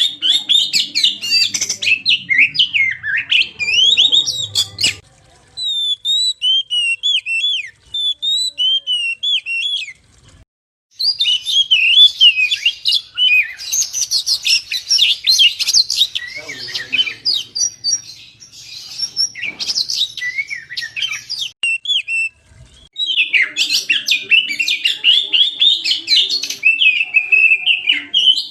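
Oriental magpie-robin (kacer) singing a fast, varied run of whistles and chirps in several long phrases, broken by short pauses.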